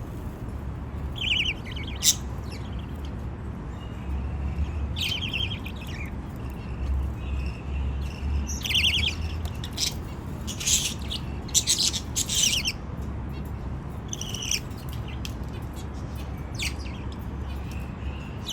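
Budgies chirping: about ten short, buzzy calls at irregular intervals, over a steady low hum.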